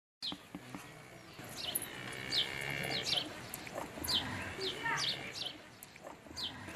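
Birds chirping: a series of short, high, falling chirps over quiet rural background noise, starting after a brief dead-silent gap at the start.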